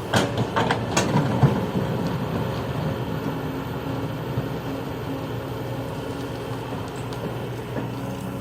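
Excavator's diesel engine running steadily, with a quick series of clanks and knocks in the first second and a half.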